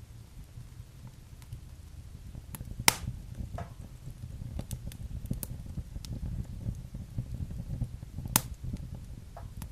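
Wood fire burning in a fireplace with a low, steady rumble of flames and scattered sharp crackles and pops, the two loudest pops about three seconds in and near the end.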